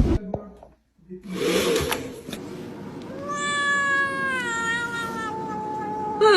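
A cat giving one long, drawn-out meow of about three seconds, slowly sinking in pitch. A short rushing noise comes shortly before it.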